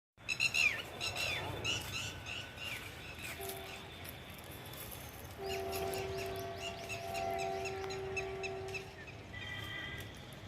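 Birds chirping in quick series of short falling notes. In the middle a steady low hum sounds for about three and a half seconds.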